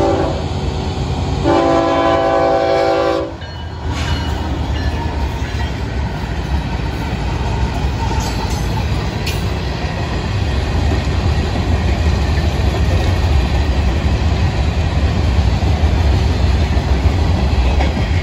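Horn of a Florida East Coast Railway GE ES44C4 freight locomotive sounding one long chord about two seconds in as the train reaches the grade crossing, then cutting off sharply. After that comes the steady low rumble and clatter of freight cars rolling past.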